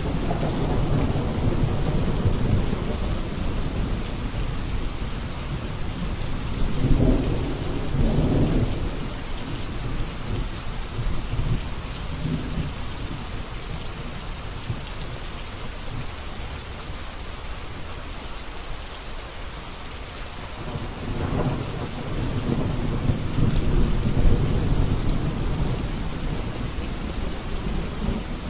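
Rain falling steadily through a thunderstorm, with thunder rumbling low under it: one long rumble with two peaks about 7 and 8 seconds in, and another swelling from about three-quarters of the way through.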